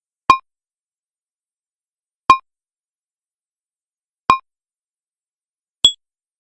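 Electronic beeps with dead silence between: three identical short beeps two seconds apart, then a single higher beep, the pattern of a countdown-timer sound effect.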